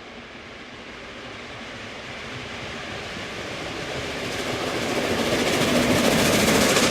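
Peppercorn Class A1 three-cylinder steam locomotive working hard up a gradient, its exhaust and train noise growing steadily louder as it approaches.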